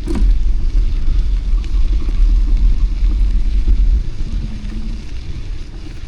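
City street traffic heard from a moving bicycle: a steady low rumble of vehicles and wind buffeting the microphone, with an engine tone rising and falling about four to five seconds in.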